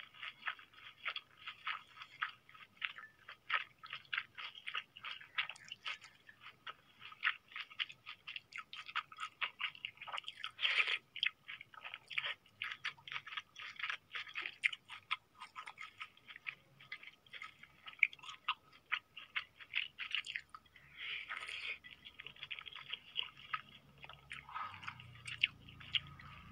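Close-miked mouth sounds of a person eating: rapid, continuous wet chewing clicks and smacks, with a louder mouthful noise about eleven seconds in.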